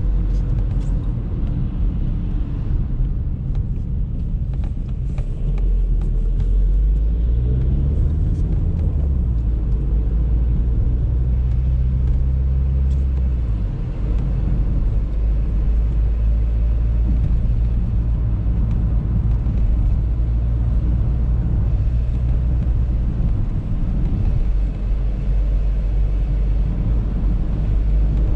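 Audi A3 driving, heard from inside: a steady low engine and road rumble whose engine tone shifts in pitch about a quarter of the way in and eases off around the middle, with a few faint ticks over it.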